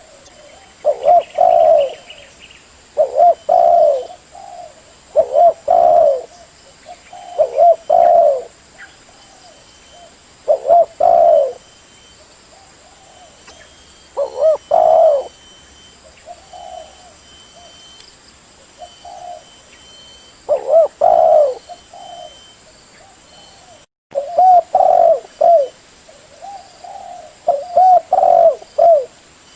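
Spotted dove cooing, a lure call: repeated phrases of low coos, the loud ones coming about every two seconds, with a stretch of softer coos around the middle.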